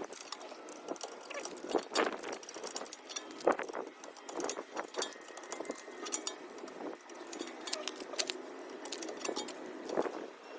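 Irregular metallic clinks, clicks and rattles of tools and parts being handled.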